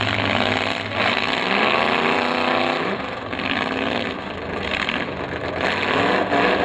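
Demolition derby car engines revving under load as the cars push against each other. One engine climbs and then drops in pitch between about one and three seconds in, over steady engine noise.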